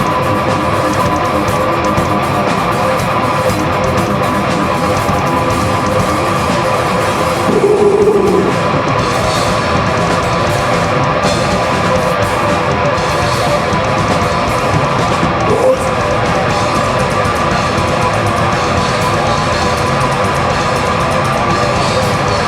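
A heavy metal band playing live: distorted electric guitars and drum kit, loud and dense, with a brief louder swell about eight seconds in.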